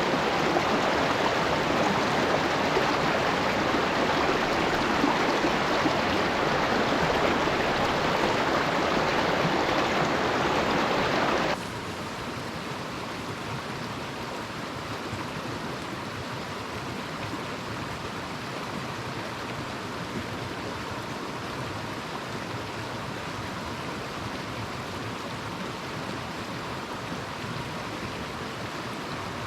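Steady rushing noise, even and without gusts, that drops abruptly to a quieter, duller rushing about eleven seconds in.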